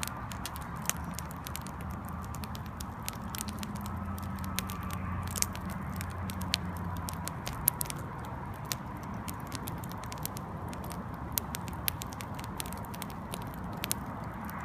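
Firewood burning, crackling steadily with irregular sharp pops, a few of them louder, over a low steady rush of the fire.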